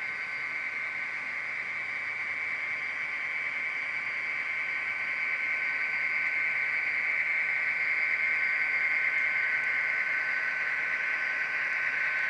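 Model diesel locomotive's sound decoder playing a running diesel engine through its small onboard speaker: a steady, thin, high-sounding drone with no deep bass, slowly getting louder.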